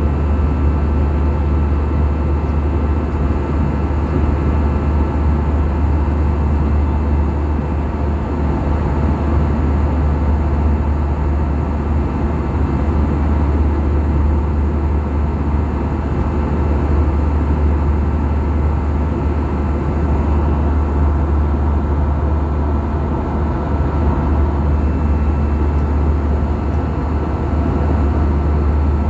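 Steady cabin noise of an Airbus A320-214 in flight: a constant low drone from its CFM56 engines mixed with airflow rush, with a few faint steady tones above it.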